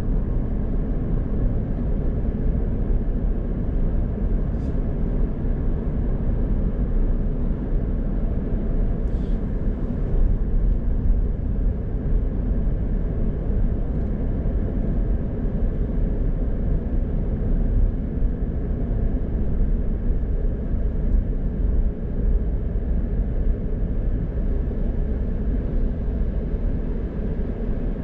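A car being driven on the road, with a steady low rumble of engine and tyres that hardly changes. Two faint brief ticks come about five and nine seconds in.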